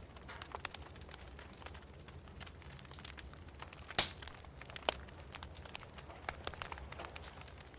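Wood fire in a fireplace crackling: irregular sharp pops and snaps over a faint low rumble, with the loudest pop about four seconds in.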